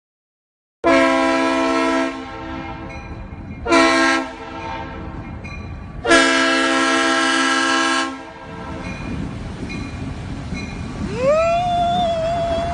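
A loud multi-tone air horn sounding three blasts, long, short, then longer, over a steady low rumble. Near the end a single tone glides up and holds.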